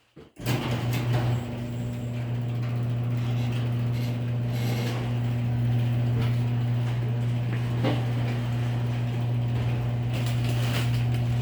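An electric motor driving a mechanism, with a steady low hum and a rattle over it. It starts suddenly just after the start and stops suddenly near the end.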